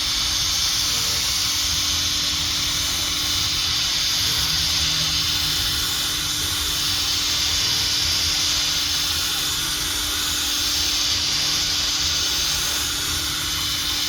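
Power sander running steadily with a 3000-grit pad, its motor hum under a steady hiss as the pad is worked over a plastic headlight lens.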